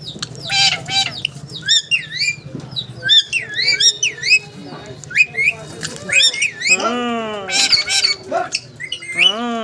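Pet parrot calling: a steady run of short squawks and quick whistled chirps that swoop up and down in pitch. Harsher screeches come about half a second in and again near the eighth second.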